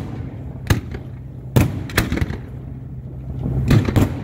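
Aerial fireworks shells bursting: about five sharp bangs, one early, two close together near the middle and two more near the end. A steady low hum runs underneath, from the tugboat's engine.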